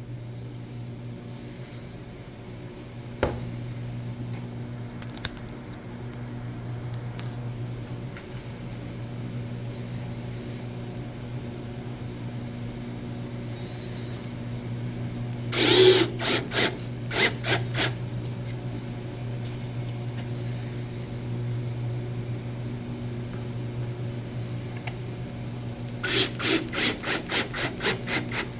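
Cordless drill driving screws, in two short spells of rapid clicking, a few seconds apart, the second near the end, over a steady low hum.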